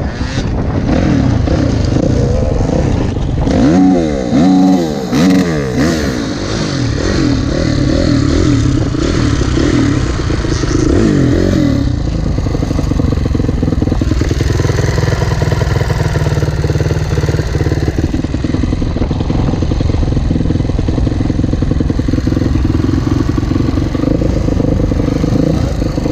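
Motocross dirt bike engine revving up and down in the first half, its pitch rising and falling repeatedly, then running at a steadier pitch from about halfway.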